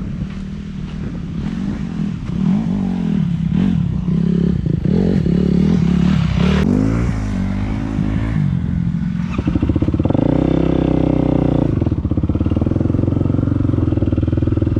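Dirt bike engine running under throttle, its pitch rising and falling again and again, then holding a steadier, louder note from about two-thirds of the way through.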